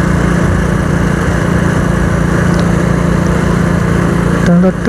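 Small single-cylinder motorcycle engine running steadily while riding, mixed with steady wind rush.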